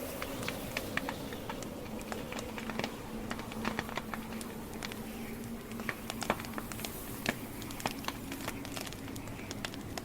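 Wood campfire burning, its logs giving off many irregular sharp crackles and pops over a steady low rush of flame.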